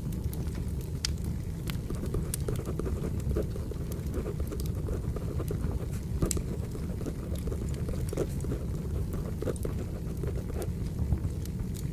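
Crackling wood fire: a steady low rumble with irregular sharp pops and crackles.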